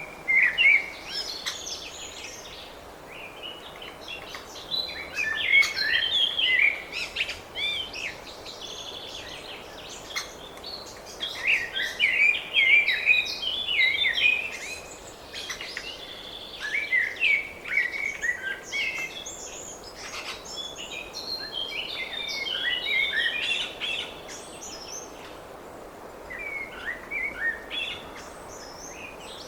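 Small songbirds chirping and singing in repeated flurries of quick, high notes, with short lulls between them, over a faint steady outdoor background hiss.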